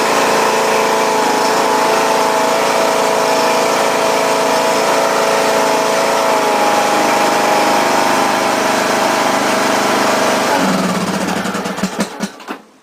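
2012 John Deere D100 lawn tractor engine running steadily. Near the end its pitch drops and it winds down to a stop, as when the engine is shut off.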